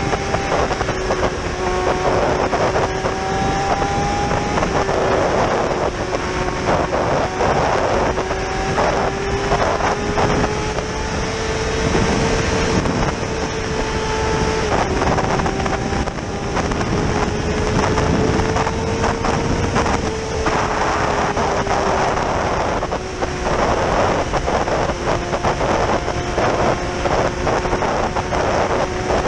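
Yamaha R6's inline-four engine running at steady road speed. Its note rises and falls gently with the throttle and drops sharply a few times. Wind rushes over the bike-mounted microphone.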